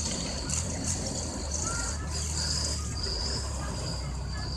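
Truck engine idling with a steady low hum, while crickets keep up a continuous high-pitched chirring.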